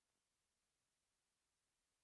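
Near silence: the sound track has cut off, leaving only a very faint hiss.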